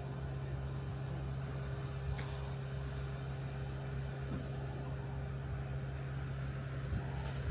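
Steady low mechanical hum with a constant pitch.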